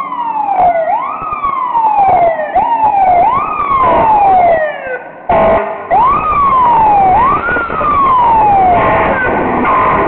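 Fire apparatus siren wailing loudly, each cycle a quick rise in pitch and a slower slide down, repeated about once a second, with a short break about halfway through. Near the end a steadier tone joins in.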